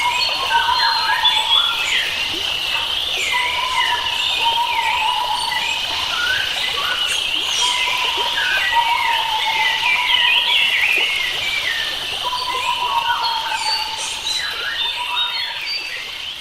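Mixed chorus of wild forest birds: many overlapping chirps, trills and curving whistles, with a lower whistled phrase that recurs every second or two.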